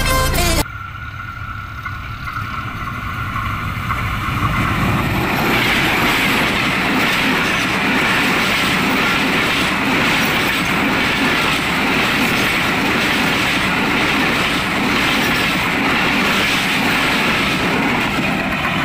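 Train running along the track, growing louder over the first few seconds and then holding a steady rumble of wheels on rails with a rhythmic clatter.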